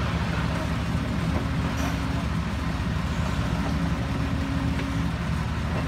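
Heavy diesel engine running steadily at low revs, a low rumble with a fast, even pulse.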